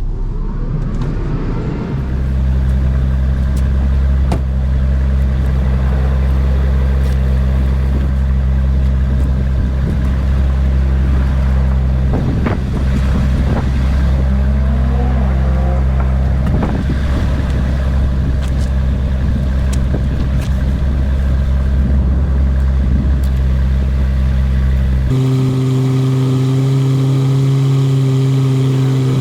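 Automatic car wash machinery running, a steady low machine hum with scattered clicks and knocks over it. Near the end the hum switches abruptly to a different, higher set of steady tones.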